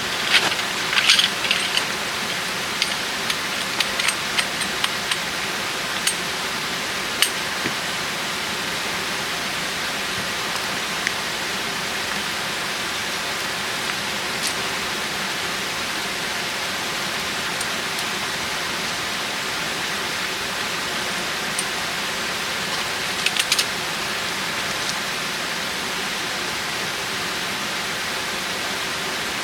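Steady rain falling, an even hiss, with scattered sharp ticks; a cluster of them comes in the first two seconds and another about 23 seconds in.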